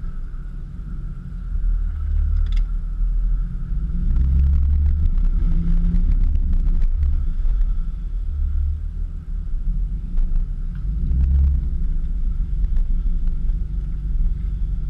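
Infiniti FX50S's 5.0-litre V8 running through an ARK custom exhaust, a deep exhaust note that swells louder about two and four seconds in, eases off around nine seconds, and swells again about eleven seconds in.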